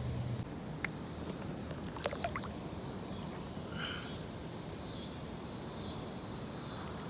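Steady low background at the waterside, with a few light clicks and rattles about one and two seconds in as a hook is worked out of a flathead catfish's mouth.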